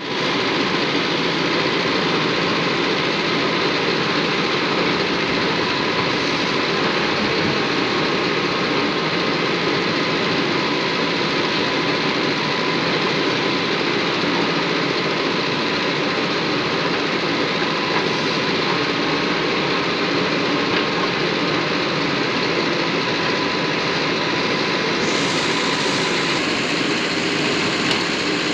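Sonalika 35 tractor's diesel engine running steadily while pulling a fully loaded soil trolley. A brighter hiss joins about 25 seconds in.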